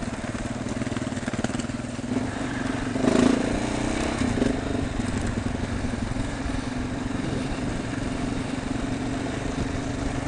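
Motorcycle engine running steadily under way, with a brief louder swell in the engine note about three seconds in.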